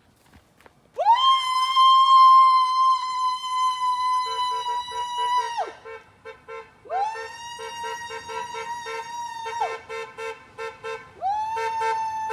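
Emergency vehicle siren sounding three times, each tone rising quickly, holding steady for a few seconds and then dropping away, with a lower tone pulsing rapidly beneath it from about four seconds in.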